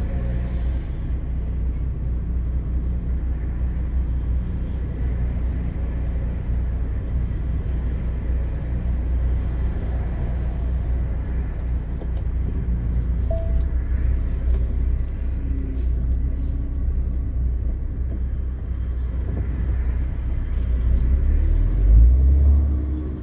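Low, steady rumble of a MAN TGX 520 truck's diesel engine and running gear while driving on the road, swelling briefly near the end before easing off.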